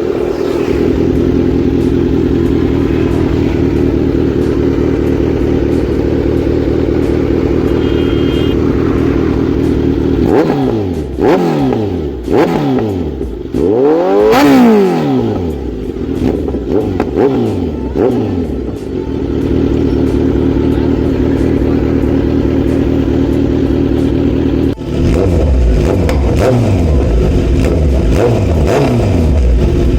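Kawasaki Z900's inline-four engine through an aftermarket full-system exhaust, idling steadily, then blipped through a series of throttle revs whose pitch rises and falls, the biggest about halfway, before settling back to idle. Near the end the idle turns louder and deeper.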